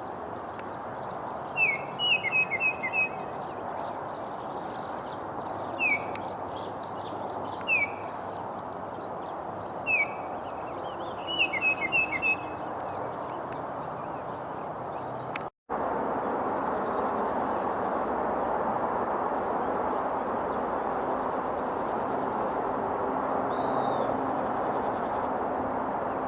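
A songbird gives short, sharp chirping notes in several clusters over a steady outdoor background hiss. Near the middle the sound cuts, and the hiss returns louder, with high buzzy trills and a few more chirps.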